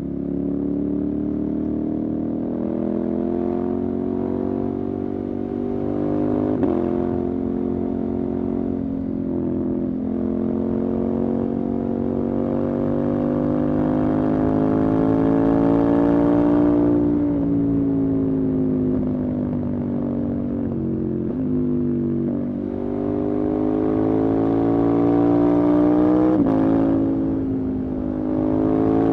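Motorcycle engine under way. Its pitch climbs slowly as it pulls, then drops sharply at each of several gear changes.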